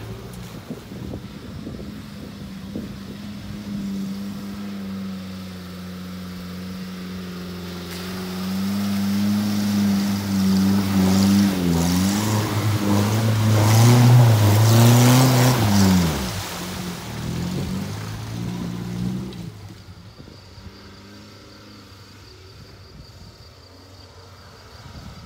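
Suzuki Samurai 4x4 engine running steadily, then revving harder as the jeep ploughs through a muddy water hole, with loud water splashing over about four seconds. The revs fall away sharply after the splash, and the last few seconds are much quieter.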